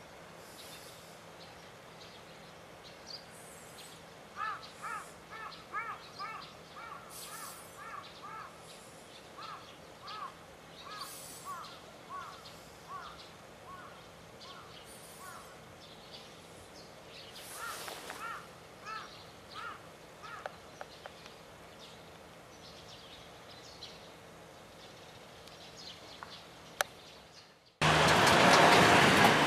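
A bird calling in long series of short, arched, repeated notes, several a second, over quiet rural background. Near the end a loud, steady rushing noise cuts in suddenly.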